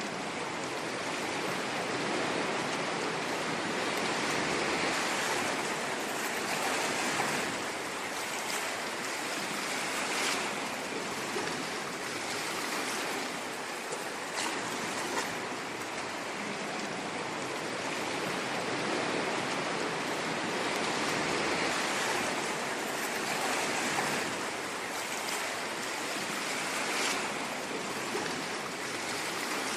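Ocean waves washing on a shore, a steady rush of surf that swells and eases slowly, with small brief crackles now and then.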